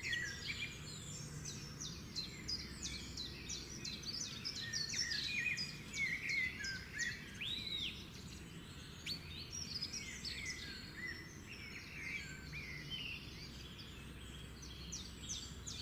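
Several birds chirping and whistling at once, a steady stream of short, overlapping high calls with a few longer rising-and-falling whistles, over a faint low hum.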